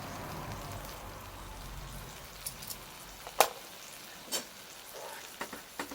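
Bonfire crackling: a steady hiss with a handful of sharp pops, the loudest about three and a half seconds in.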